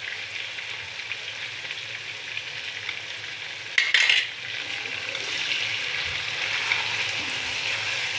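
Oil sizzling steadily under potatoes, tomatoes and onions frying in a nonstick wok, with one short loud noise about four seconds in. The sizzle grows louder over the last few seconds as the vegetables are stirred with a silicone spatula.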